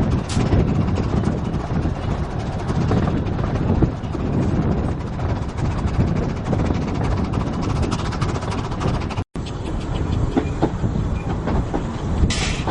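Narrow-gauge railway train running along the track, its wheels clattering steadily over the rail joints. A short hiss sounds near the end.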